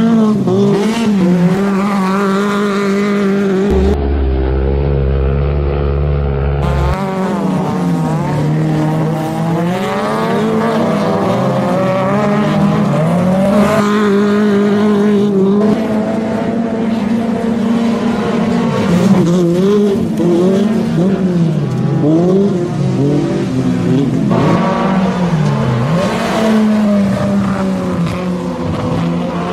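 Autocross race car engine at full racing effort, its pitch climbing and dropping again and again as the driver accelerates, lifts and shifts around the course.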